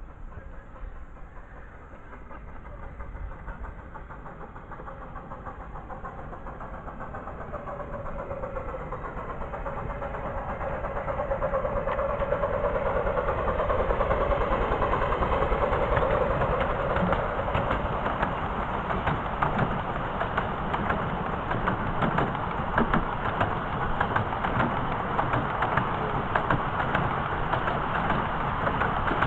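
Miniature railway train approaching and running past, growing steadily louder for about fourteen seconds, then running close by with rapid clicking and rattling.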